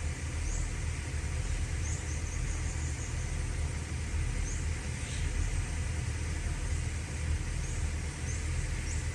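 Excavator's Hino J05E-TG four-cylinder turbo diesel engine running at a steady idle, with a low even hum.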